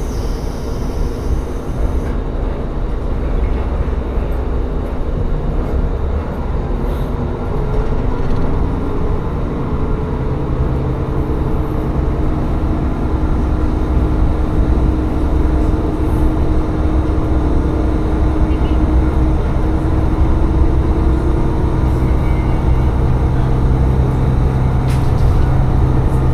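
Diesel railcar running on the line, its engine note climbing in pitch about eight seconds in and then holding steady as the train gathers speed.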